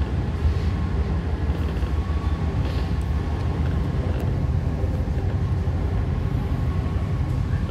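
MTR C-Train electric multiple unit running after leaving a station, heard from inside the car: a steady low rumble of wheels on rail with a thin, steady whine above it.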